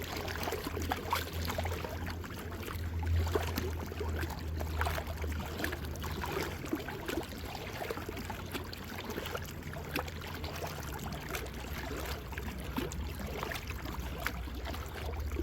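Water splashing and trickling around a small paddled fishing boat, with many small irregular splashes over a steady low rumble.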